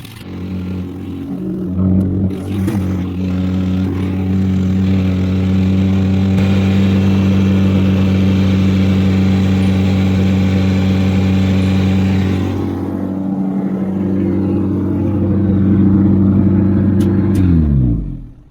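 VW Scirocco's four-cylinder engine running steadily while it warms up, with a brief rise in revs about two seconds in. Near the end it is switched off and the pitch slides down as the engine stops.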